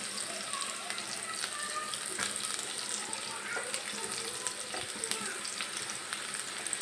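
Chopped onion and green chillies sizzling in hot oil in a nonstick frying pan as they fry, stirred with a silicone spatula. A steady hiss with occasional light ticks.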